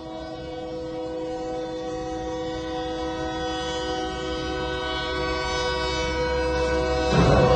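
Kansas City Southern de México locomotive's air horn sounding one long held chord of several tones, growing louder as the train nears. About seven seconds in, the horn cuts off and a loud crash breaks out: the locomotive striking a truck.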